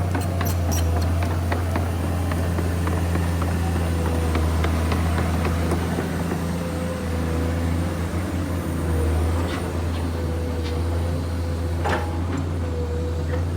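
Komatsu PC210 hydraulic excavator's diesel engine running steadily at work, a deep constant hum with a wavering whine above it. Scattered light clicks and knocks sound throughout, with a sharper knock near the end.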